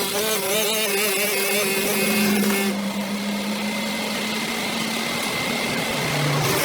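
Small motor running steadily, its pitch wavering slightly.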